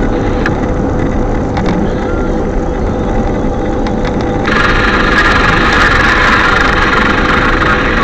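Strong wind rumbling against the microphone. About halfway through, a steady hiss suddenly comes in on top and holds.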